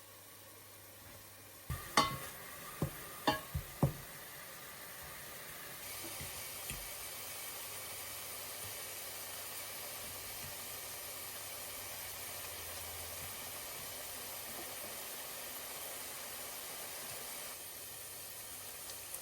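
A few sharp clinks and knocks of kitchenware, one of them ringing, then a steady sizzle of food frying in a pan that stops a couple of seconds before the end.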